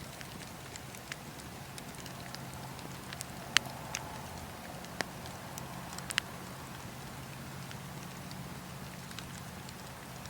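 Wood fire crackling in a fireplace: a steady low rush of burning with scattered sharp pops, the loudest pop about three and a half seconds in.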